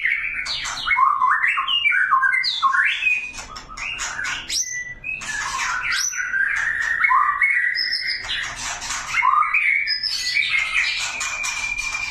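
Young white-rumped shama (murai batu) singing in a worked-up, aggressive mood: a fast, varied run of clear gliding whistles broken by harsh, scratchy notes, with a long held whistle near the end.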